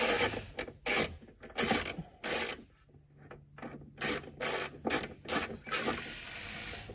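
Small 9/32 wrench ratcheting in short, uneven strokes, about nine in all, as small nuts on the trunk's deck lid are loosened.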